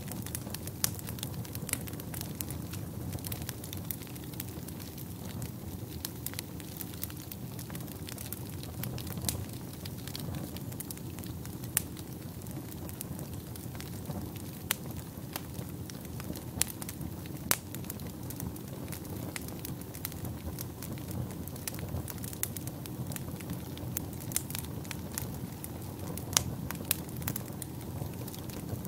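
Fire burning in a fireplace: a steady low rumble of flames with frequent irregular crackles and sharp pops.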